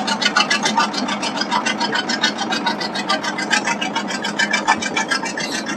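John Deere Model R two-cylinder diesel engine running, a steady fast rhythm of exhaust pulses.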